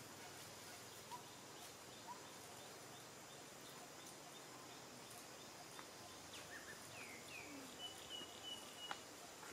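Near-quiet ambience: a steady faint hiss with scattered soft high chirps, about one a second at first, and a few short down-slurred calls, a brief held whistle and soft clicks in the second half, typical of distant birds.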